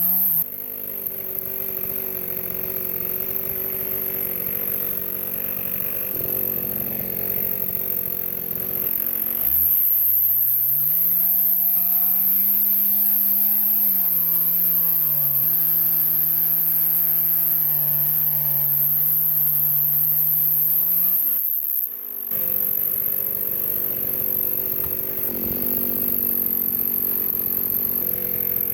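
Two-stroke chainsaw cutting through a log, the engine pitch rising and falling with the throttle and load. It runs at high revs for about twelve seconds in the middle, then drops back and carries on cutting.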